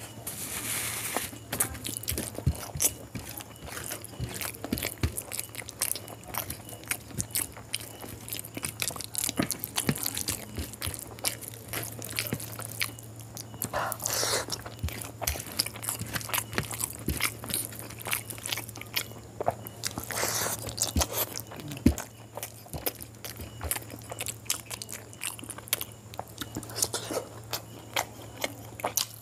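Close-miked chewing and biting of curried chicken and quail eggs eaten by hand. There are many sharp, wet mouth clicks and a few longer noisy bursts, over a steady low hum.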